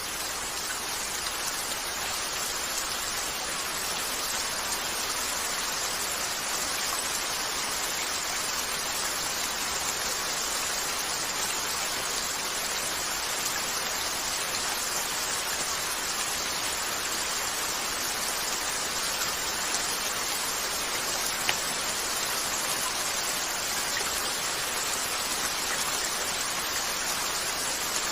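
Steady rain falling on a window, an even hiss, with a few faint pops from a crackling wood fire about two-thirds of the way through.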